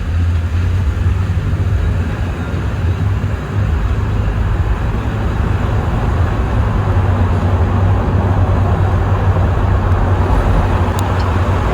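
Car driving along a road: steady low road rumble with tyre and wind noise, growing a little louder after about four seconds.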